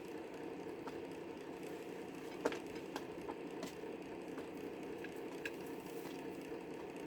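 Chickens pecking at food: scattered sharp taps, the loudest about two and a half seconds in, over a steady low hum.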